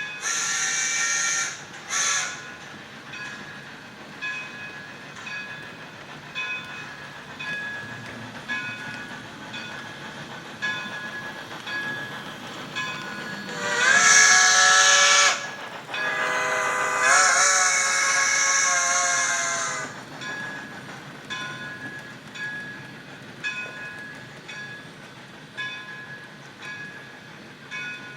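HO scale model steam locomotive's sound system whistling: a blast and a short toot at the start, then two long blasts in the middle, each sliding up in pitch as it opens. Slow, even chuffing runs beneath.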